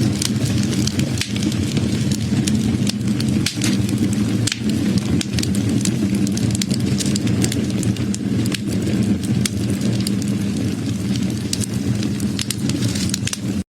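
Wood fire burning: a steady low rush of flame with frequent sharp crackles and pops from the burning wood.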